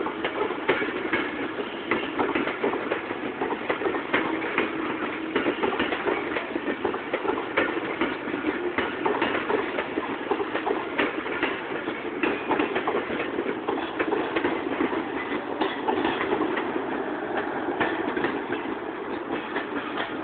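Pakistan Railways passenger coaches rolling past on the track, a steady rumble of steel wheels on rail with a continuous run of clicks and knocks as the wheels clatter over the rail joints.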